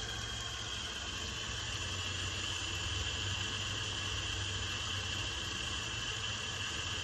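Steady, high-pitched insect trilling, like crickets, over a low steady hum.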